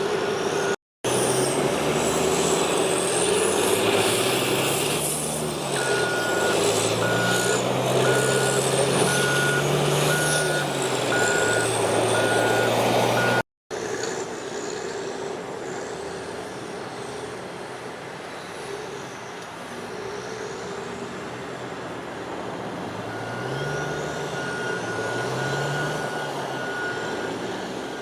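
Heavy diesel snow-removal equipment at work: the engine revs up and down under load while a back-up alarm beeps in a steady pulse. The sound drops out abruptly twice, just under a second in and about halfway through.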